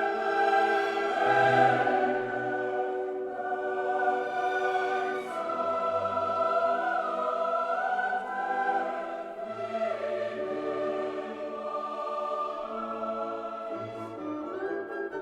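A choir singing with an orchestra in classical choral music, held chords changing every second or two over a moving bass line.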